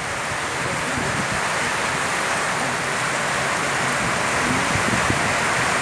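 Torrential rain pouring down, a dense steady hiss that grows a little louder.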